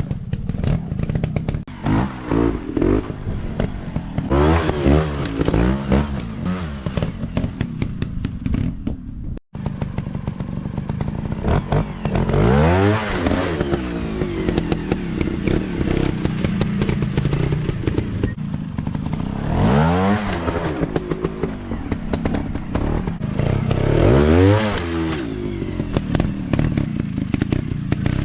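Small 150 cc dirt-bike engines running and being revved over and over, the pitch climbing and dropping as the throttle is opened and shut, with clattering and knocks. The sound cuts out for an instant about a third of the way in.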